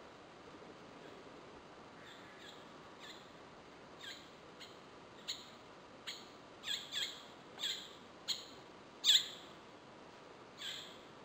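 Bird calling again and again among the trees: short, sharp notes that sweep downward in pitch, faint at first and growing louder, the loudest one about nine seconds in, over a faint steady hiss.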